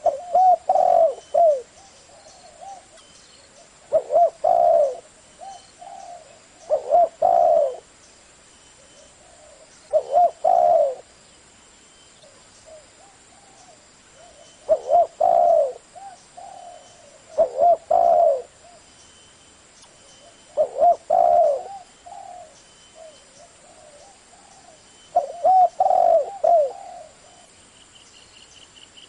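Spotted dove cooing: a phrase of a few low coos about every three seconds, with softer coos between the phrases.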